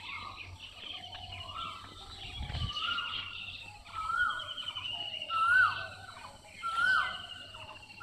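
Birds calling. One bird repeats a short rising-and-falling call about once a second, creeping higher in pitch and growing louder. Another keeps up a high trilling call.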